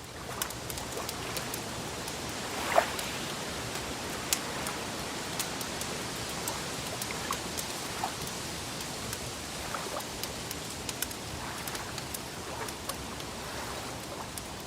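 Wood fire crackling: a steady hiss with frequent small sharp pops, the loudest about three seconds in.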